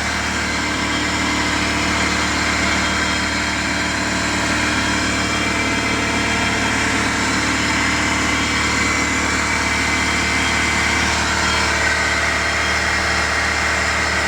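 Freshly rebuilt Honda VTEC four-cylinder engine idling steadily, with a steady higher-pitched whine over the idle that is put down to the clutch throwout bearing.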